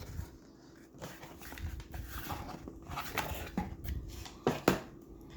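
Rustling and crinkling of packaging as parts are taken out of an adapter kit, with a few sharp clicks and taps, the loudest two close together near the end.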